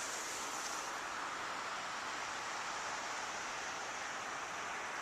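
Steady rushing noise of riding a road bike: wind over the microphone mixed with tyre noise on the road, with a brief sharper hiss in the first second.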